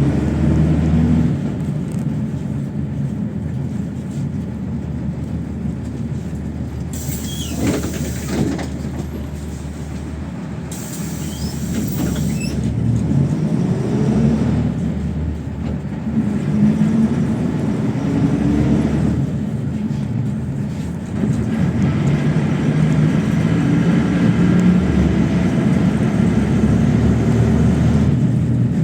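PAZ-32054 bus's V8 petrol engine running under way, heard from inside the passenger cabin, its pitch rising and falling with road speed and gear changes. There are two brief bursts of hiss about a third of the way through, and the engine gets louder near the end.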